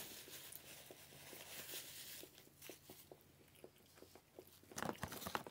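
Quiet chewing of a soft microwaved roast beef and cheddar sandwich, with small wet mouth clicks scattered throughout. A paper napkin is rustled in the hands during the first couple of seconds, and there is a louder mouth sound about five seconds in.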